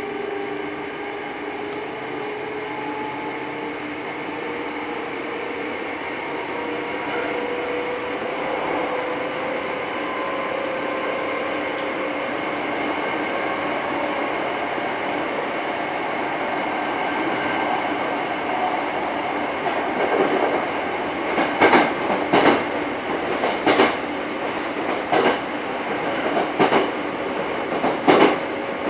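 Hankyu 6300 series electric train running, heard from inside the car, with a whine slowly rising in pitch as it picks up speed. From about two-thirds in, the wheels clack over rail joints in regular pairs.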